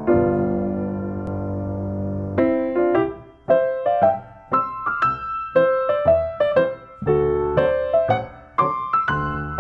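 Background piano music: a held chord, then a melody of single notes starting about two and a half seconds in.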